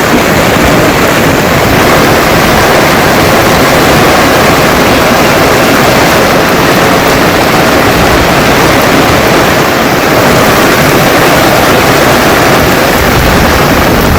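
Heavy monsoon rain falling, a loud, steady rush of noise that never lets up.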